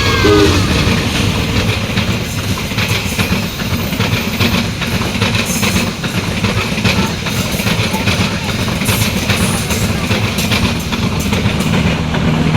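Railway train passing close by: a loud, steady rumble of cars with wheels clacking over the rail joints.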